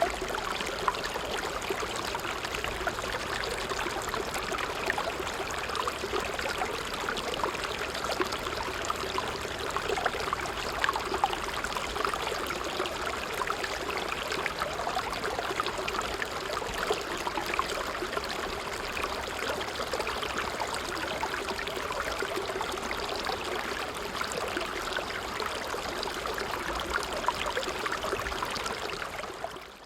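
Small creek running over stones, a steady babble of water dense with tiny splashes and trickles, fading out at the very end.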